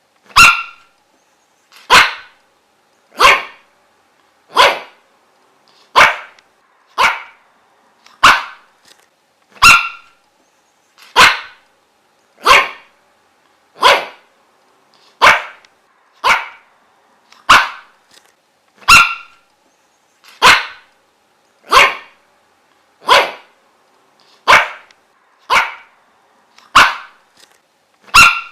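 A dog barking single sharp barks at an even, steady pace, about one every second and a half, with silence between them.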